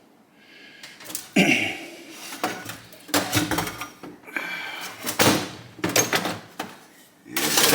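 Metal tools and engine parts being handled on a workbench: a string of sharp knocks and clanks, then a longer, louder clatter near the end.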